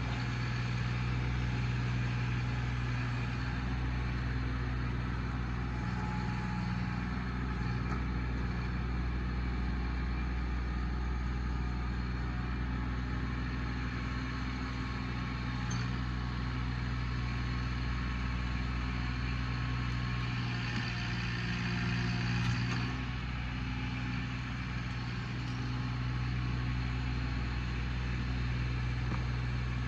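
Small tractor's engine running steadily, with a brief change in its sound about two-thirds of the way through.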